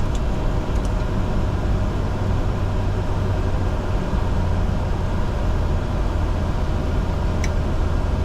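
Steady cockpit noise of a Bombardier Challenger 605 in its climb after takeoff: a continuous rush of airflow and turbofan drone with a strong low hum. There are a couple of faint clicks near the end.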